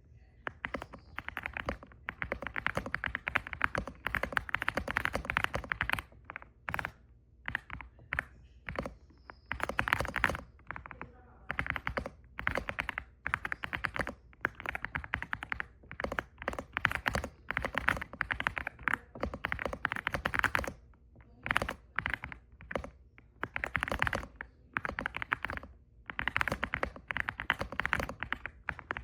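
Typing on an EPOMAKER x Aula F75 gasket-mounted mechanical keyboard: rapid runs of keystrokes lasting a few seconds each, broken by short pauses.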